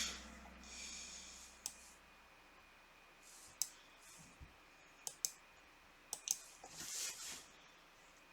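About six sharp clicks, scattered and some in quick pairs near the middle, with soft breaths in between.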